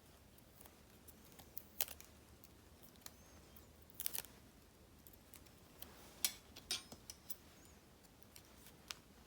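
Small craft scissors snipping and paper stickers being handled on a desk. The sound is a few light, scattered snips and ticks over quiet room tone, with a small cluster a little after the middle.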